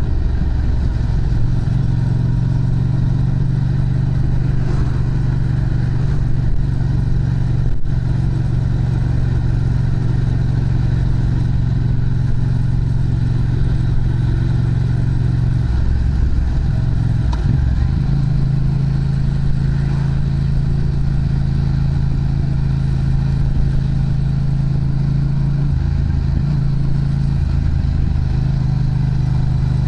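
Yamaha MT-07's parallel-twin engine running steadily through an aftermarket Prunus muffler, its exhaust note shifting slightly in pitch a little past halfway.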